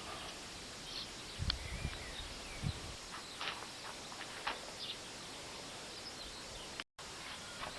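Quiet outdoor ambience with scattered faint bird chirps and a few soft low thumps in the first three seconds.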